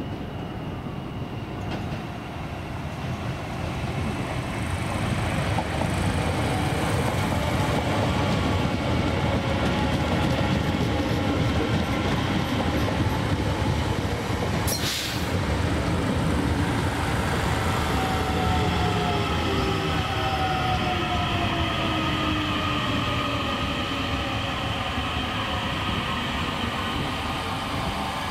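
DART electric multiple unit trains running on the rails, the sound swelling as a train draws in close along the platform. About two-thirds of the way through, a whine from the traction motors falls steadily in pitch as the train slows and brakes to a stop. There is one sharp click about halfway through.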